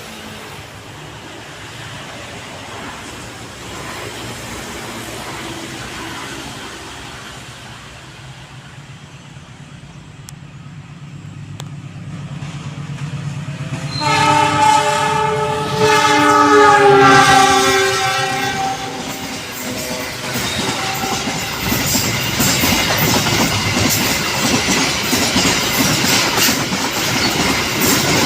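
An Indonesian passenger or freight train approaching with its diesel locomotive's engine hum building, then sounding a loud multi-note air horn for about five seconds, its pitch dropping as it passes. The train then rushes by at speed, its wheels clattering over the station's rail joints and switches.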